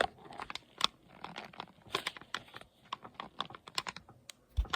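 Irregular light clicks and taps, several a second, like small hard objects being handled or tapped.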